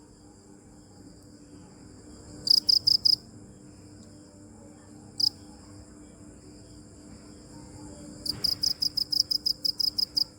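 Cricket chirping in quick pulsed bursts: a short burst of about five pulses, a single pulse, then a longer run of rapid pulses near the end. A steady faint high-pitched trill continues underneath.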